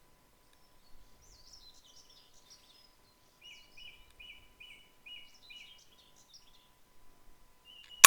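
Woodland songbirds singing: a quick high warbling phrase, then a run of about half a dozen repeated chirps. At the very end comes a single sharp crack of an air rifle shot.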